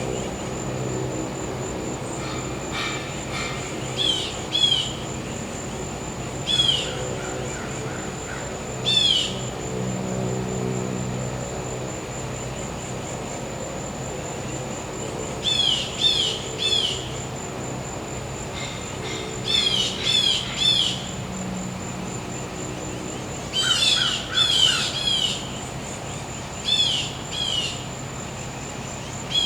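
Birds calling in short, falling chirps, mostly in quick pairs and triplets, over a steady high-pitched insect drone and the low hum of a gas-powered generator.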